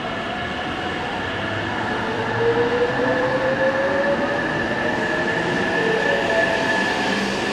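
A JR West limited express electric train pulling out of the platform and gathering speed, its motor whine rising slowly in pitch over the steady run of wheels on rail.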